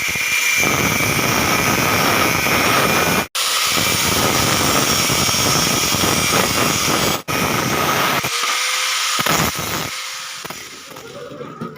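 A power tool running loudly and steadily for several seconds, broken twice by sudden instant gaps. It then dies down to a quieter hum near the end.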